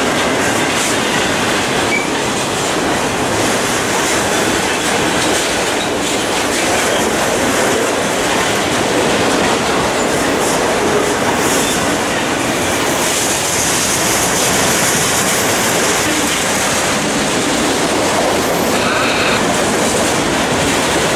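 Multilevel autorack freight cars rolling past at close range, giving a loud, steady noise of steel wheels running on the rails, with a brief high-pitched wheel squeal near the end.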